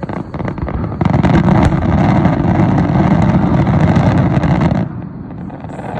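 Fireworks barrage: many shells and crackling stars bursting in quick succession, the pops merging into a continuous rumble. It swells about a second in and stops abruptly near the end.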